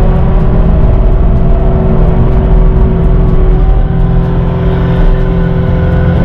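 Caterpillar 259D3 compact track loader's diesel engine running steadily at working revs, with a steady whine over the low engine drone.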